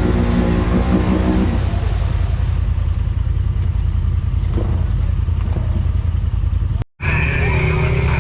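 Side-by-side UTV engine running steadily with a low drone while riding. About seven seconds in it cuts off suddenly and music begins.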